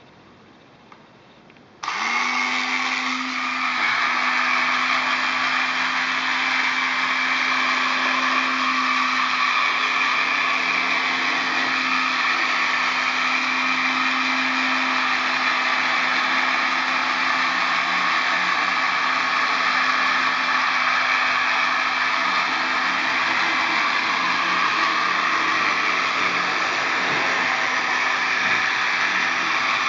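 Small desktop robot vacuum cleaner from an Otona no Kagaku kit switching on about two seconds in, then running steadily: its little motor and suction fan make a constant whirring hum and hiss.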